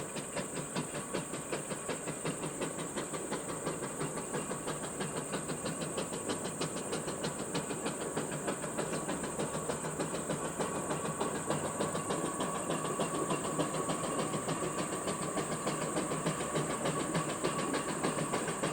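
Steam traction engine under way on the road, its exhaust beating out a fast, even chuff over a steady steam hiss, growing slowly louder.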